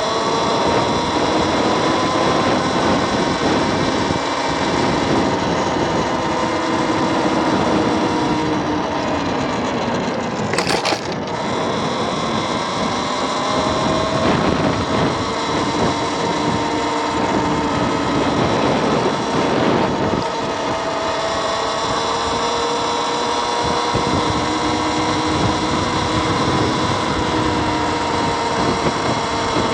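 Electric motor-scooter's motor whining in several pitches that slowly rise and fall with road speed, under heavy wind noise on the microphone. A single sharp knock comes about eleven seconds in.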